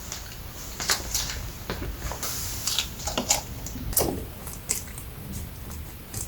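Rabbit eating fresh pineapple: irregular crisp crunches and wet bites of chewing.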